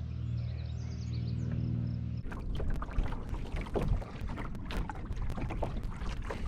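A steady low hum for about two seconds, then an abrupt change to a rapid run of knocks, clunks and watery splashes from a canoe hull and paddle as the canoe comes in.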